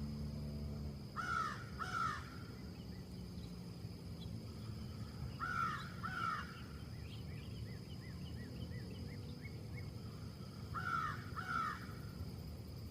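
A crow cawing in pairs: two harsh caws about a second in, two more near six seconds, and a last two near the end. In between, a smaller bird chirps quickly several times a second, all over a steady low rumble.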